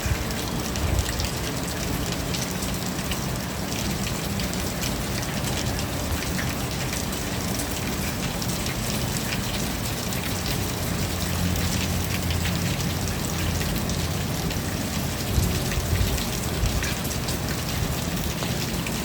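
Steady rain falling, a dense patter of drops on surfaces, with a low steady rumble underneath.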